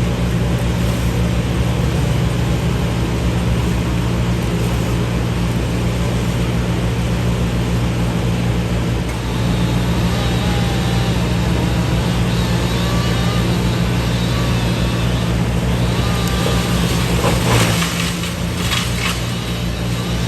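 Large engine running steadily at a constant speed, with a short clatter about seventeen seconds in.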